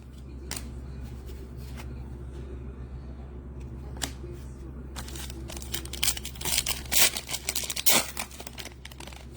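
Trading card packs being opened and cards handled: a few faint clicks, then from about five seconds in a dense run of crinkling and rustling as a wrapper is torn and cards are shuffled.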